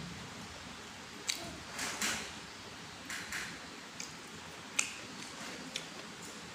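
Close-miked chewing of crunchy food: short sharp crunches and mouth sounds at irregular intervals, five or six in a few seconds, the loudest about two-thirds of the way through.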